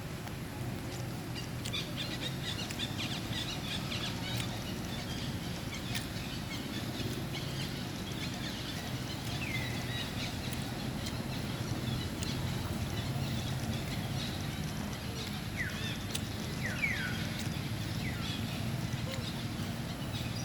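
Outdoor ambience: a steady low hum with a few short, high, falling animal chirps, one about halfway through and a cluster of three near the end.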